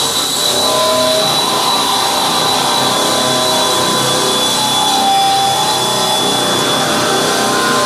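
Live harsh noise music: a loud, dense wall of hiss and static with a steady high tone held over it and short wavering tones drifting in and out.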